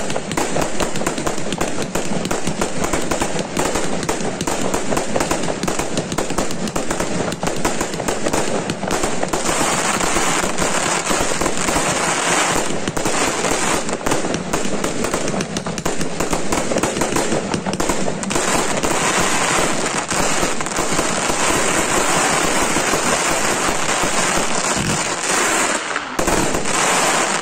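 A 150-shot, 20 mm calibre consumer firework cake (SR Pyro Supernova) firing a dense, rapid, continuous volley of shots and bursts.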